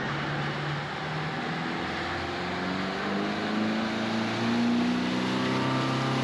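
Motorboat engine running under way, its pitch slowly climbing as it speeds up, over a steady rush of wind and water.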